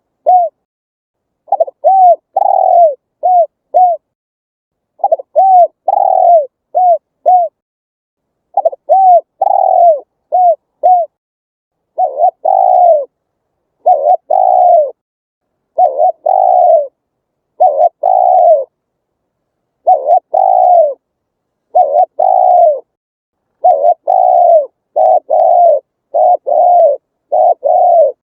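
Spotted dove cooing: repeated phrases of short, downward-bending coos. About halfway through, the notes become longer and more evenly spaced, roughly one a second.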